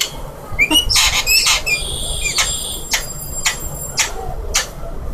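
Alexandrine parakeet squawking and chirping in short, high calls. In the second half come sharp squawks at about two a second.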